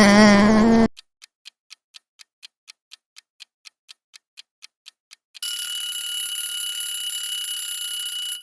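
An animal call cuts off about a second in, followed by a countdown timer's clock ticking, about four ticks a second, for some four seconds. Then a steady high-pitched ringing tone sounds until the end, like a timer's alarm.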